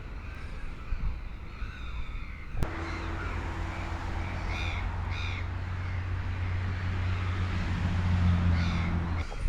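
Crows cawing, two calls about halfway through and another near the end, over a steady low hum that starts with a click a couple of seconds in.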